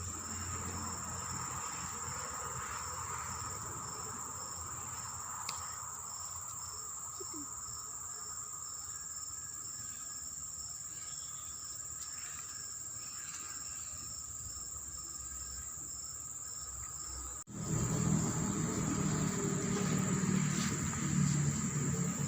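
Steady high-pitched insect chorus with a fainter pulsing trill beneath it. About seventeen seconds in, a sudden break brings in a louder low rumble under the insects.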